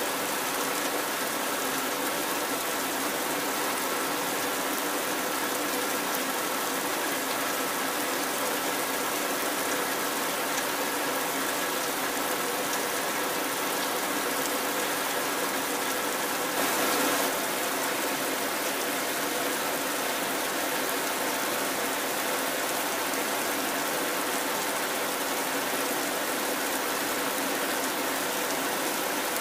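Heavy rain falling, a steady even hiss, with a brief louder swell a little past the middle.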